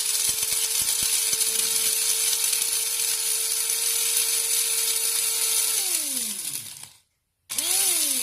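Mellerware Aromatic electric coffee bean grinder's motor running steady with a high whine, a few sharp ticks of beans being struck by the blades in the first second or so. About six seconds in it is switched off and spins down, its pitch falling away.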